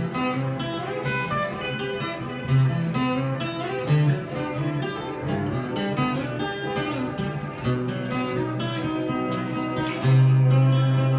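Instrumental acoustic guitar music: plucked notes in a flowing melody, with a louder low note held near the end.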